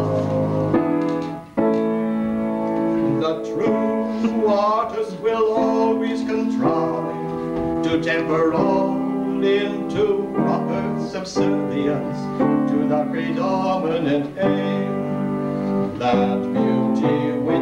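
Piano music, with a voice singing over it in places.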